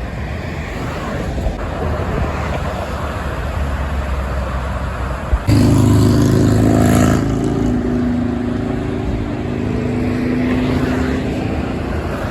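Highway traffic rumbling steadily. About five and a half seconds in, a truck passes close with a sudden loud rush and engine drone that fades away over the next few seconds.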